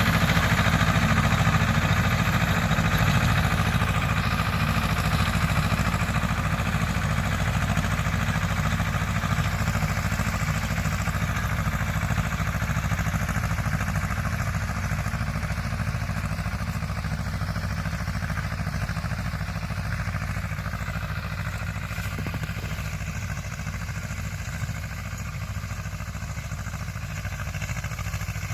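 Escorts 335 tractor's three-cylinder diesel engine running steadily while working a rotavator, its level slowly easing off.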